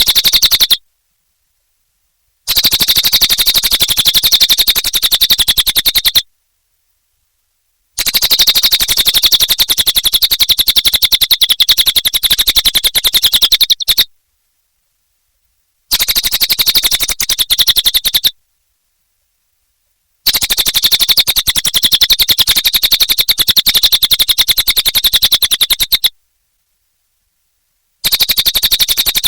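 A cililin bird calling in long, very rapid chattering trills, strongest in the upper register. The calls come in bursts of about four to six seconds, cut off by complete silences of about two seconds, five bursts in all.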